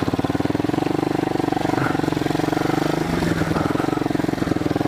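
Pit bike's small single-cylinder engine running at a steady speed with a fast, even firing rhythm. The engine speed dips briefly about three seconds in, then picks up again.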